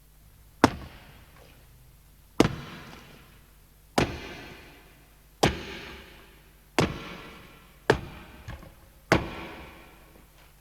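A recorded sound effect of seven sharp cracks or bangs, about one and a half seconds apart, each dying away in a short echoing tail.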